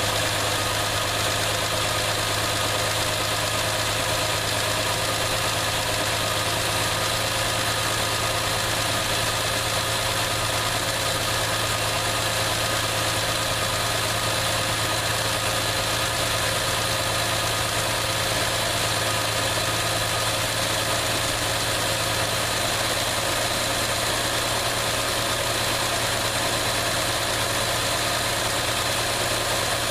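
Chrysler Slant Six inline-six engine in a 1973 Plymouth Valiant idling steadily, still warming up after a cold start.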